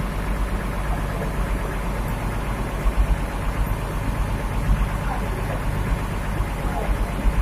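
An engine idling steadily, with a low, evenly pulsing rumble.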